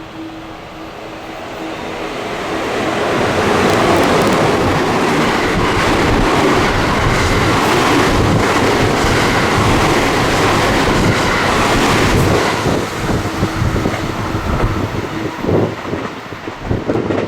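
JR West Biwako Line train passing through the station without stopping. The wheel and rail noise builds over the first few seconds, holds loud, then breaks up into uneven clacks and thumps near the end.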